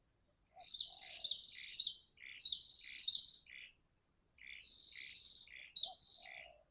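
Bird calls in two phrases of quick, high, falling chirps, each about three seconds long with a short gap between them. Beneath them are fainter low coos typical of a spotted dove, as used in a lure-call recording.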